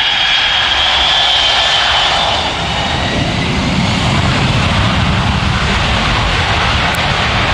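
Douglas DC-8's four Pratt & Whitney JT3D turbofans at close range: a high whine fades over the first two seconds while a low crackling rumble builds from about three seconds in.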